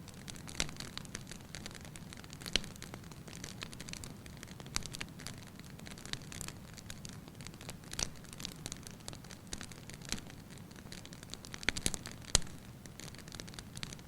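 Fire in a fireplace crackling: irregular pops and snaps over a steady low hiss, with the sharpest pop near the end.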